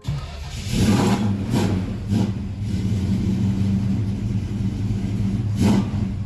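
1970 Dodge Charger's 318 V8, on headers and dual exhaust, catching on a cold start and settling into a fast, steady idle, with a few brief throttle blips.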